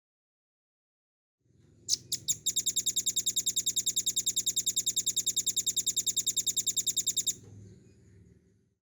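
Velvet-fronted nuthatch (rambatan paruh merah) song: a few sharp high notes about two seconds in, then a fast, even, high-pitched trill of about ten notes a second that lasts about five seconds and stops abruptly.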